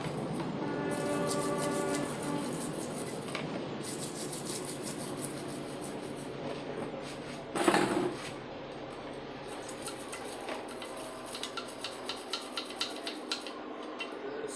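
Motorcycle crankcase half being scrubbed and scraped to remove carbon crust: repeated quick rasping strokes of a tool on metal, with a louder clatter about eight seconds in.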